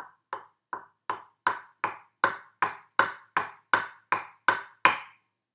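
Wooden spoons knocking on a wooden chopping board in an even rhythm, about fourteen strikes at under three a second, getting louder as it goes and stopping about a second before the end.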